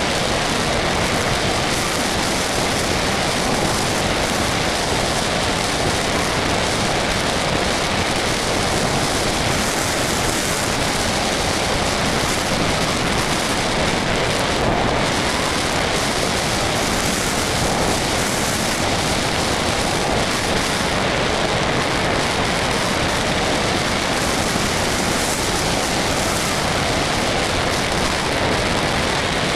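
Steady rushing airflow noise over a small camera carried on an RC model plane in flight, even and unbroken throughout.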